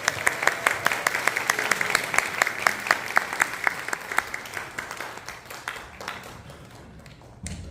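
Audience applauding, the clapping thinning out and dying away over the last few seconds, with a single short knock near the end.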